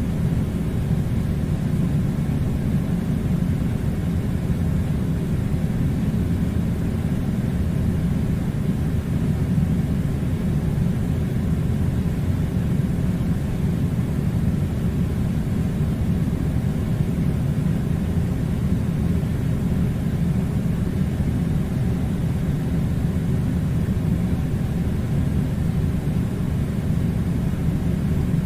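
Steady low rumbling noise that holds even throughout, with no distinct tones or events.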